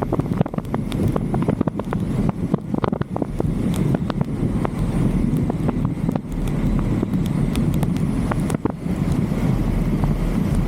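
Wind buffeting a roof-mounted camera's microphone on a moving vehicle, over a steady low road rumble, with frequent sharp ticks scattered throughout.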